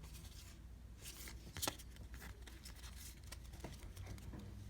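Faint rustling and sliding of baseball cards and a foil pack wrapper being handled, with one sharp tick about a second and a half in.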